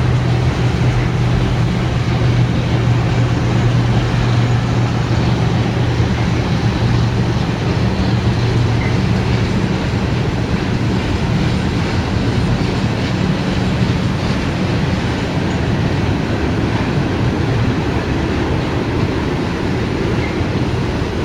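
Freight train rolling past: a steady rumble of wheels on the rails, with a low hum that fades about halfway through.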